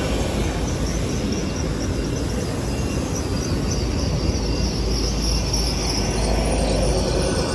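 GWR Class 800/802 intercity trains running through a station: a steady rumble of wheels on rail with a high-pitched whine above it that grows stronger toward the end.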